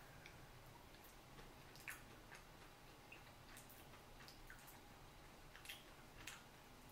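Near silence, with faint wet mouth clicks from a person chewing a bite of soft cake dessert, a few scattered clicks over several seconds.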